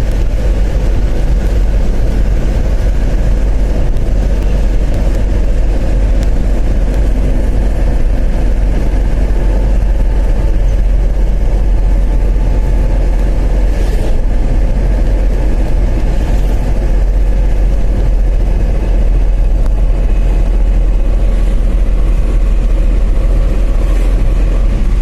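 Mahindra Supro Maxi Truck engine running steadily, with a heavy low rumble.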